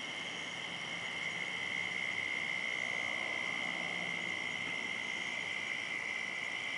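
Steady, unbroken high-pitched chorus of night insects, cricket-like trilling, over a faint hiss.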